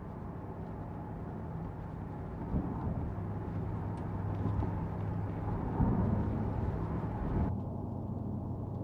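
Jaguar XK8's V8 heard from inside the cabin while cruising steadily at about 50 mph in sport-off mode, a steady low engine drone mixed with road and tyre noise.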